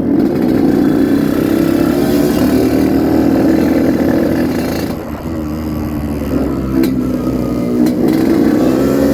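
Yamaha RX-King 135 cc two-stroke motorcycle engine running under way. Its pitch and loudness dip about five seconds in, then rise again.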